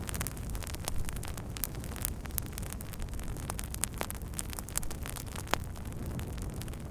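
Wood fire burning: irregular sharp crackles and pops over a steady low rushing noise.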